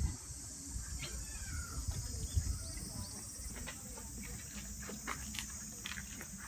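Cicadas droning steadily in a high-pitched hiss, with a few faint clicks over a low rumble.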